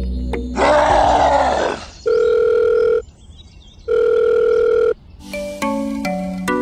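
Telephone ringing tone heard on the line: two steady beeps, each about a second long and about a second apart. Before them comes a loud rough burst of noise about a second long, and light background music comes back in near the end.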